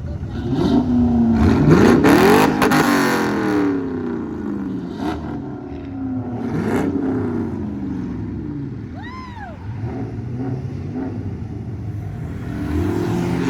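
Classic car engines passing on the street, one accelerating hard about two seconds in, its pitch rising then falling as it goes by, with more engines swelling and fading after. A brief rising-and-falling whistle-like tone about nine seconds in.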